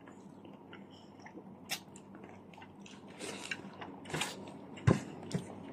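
Close-up eating sounds: chewing and biting into a shawarma wrap, with scattered small clicks and rustles and a sharper crunch near the end.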